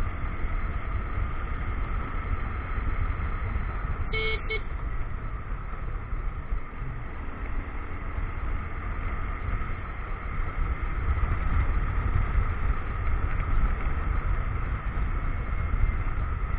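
Motorcycle riding along a road, engine running steadily under heavy low wind rumble on the action-camera microphone. A short horn beep sounds about four seconds in.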